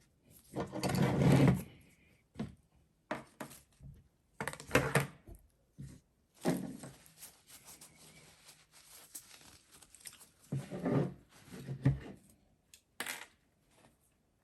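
Irregular knocks, clunks and clicks of parts and tools being handled, in short bursts a few seconds apart.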